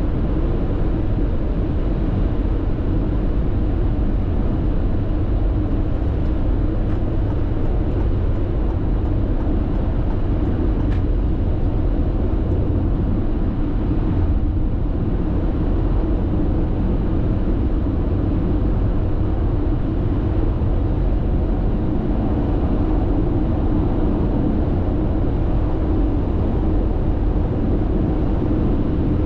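Steady road and tyre noise inside a car's cabin as it cruises at constant speed on an expressway, an even low rumble.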